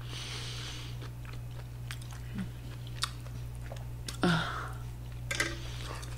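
Close-miked chewing and mouth sounds of a person eating seafood tacos, with small wet clicks scattered through and a louder mouth sound about four seconds in. A steady low hum runs underneath.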